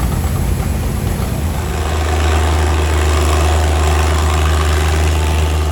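Antique tractor engine running with a steady low drone that becomes stronger and more even about a second and a half in.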